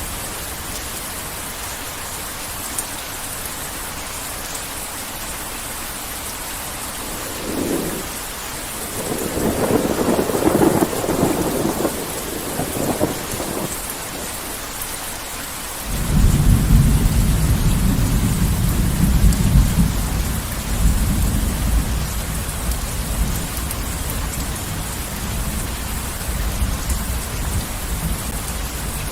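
Steady heavy rain with thunder. A roll of thunder rumbles from about 7 to 13 seconds in, then a louder, deeper rumble breaks in suddenly around 16 seconds and slowly dies away under the rain.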